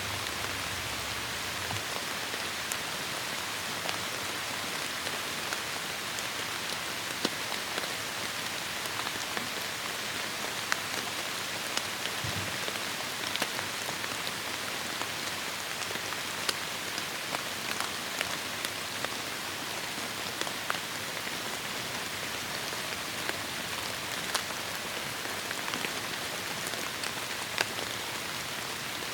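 Heavy rain falling steadily on forest foliage, a dense even hiss with many separate drops ticking through it.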